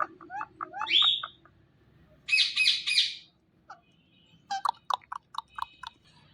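Indian ringneck parakeet chirping and squawking: short chirps and rising whistled notes, a harsh three-part squawk about two and a half seconds in, then a quick run of short chirps near the end.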